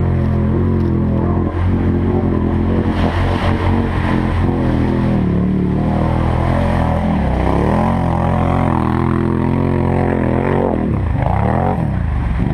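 4x4 ATV engine running loud and steady while under way, its pitch rising and falling with the throttle, dropping off briefly and picking up again near the end.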